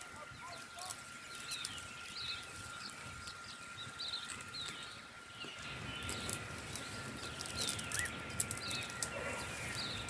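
A bird repeatedly calling with short, falling high chirps, over a faint steady high whine. From about six seconds in, scraping and sharp clicks of digging in hard, root-filled soil grow louder.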